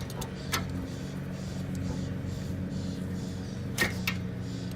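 Steady low mechanical hum, like a motor running, with two sharp metallic clinks of hand tools, about half a second in and again near the end.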